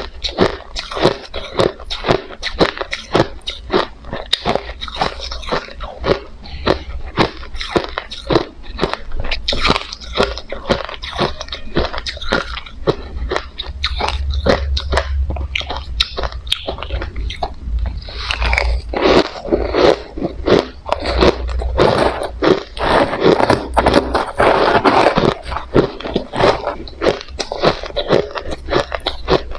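Crushed bits of hard ice being bitten and chewed close to the microphone: sharp crunches several times a second, which thicken into a denser, louder run of crunching in the latter part.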